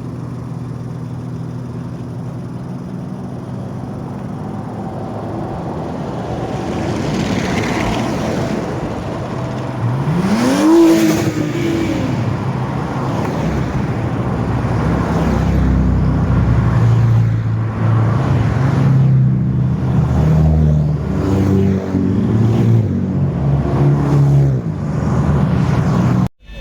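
Car engines running, with one rev that rises and falls in pitch about ten seconds in and uneven engine revving in the second half.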